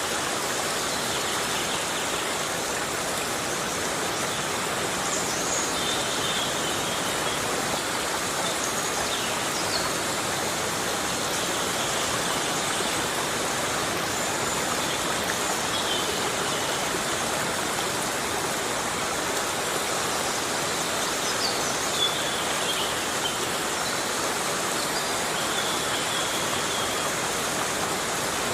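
Heavy rain falling steadily in a forest, a dense even hiss with no letup, with a few faint high chirps here and there.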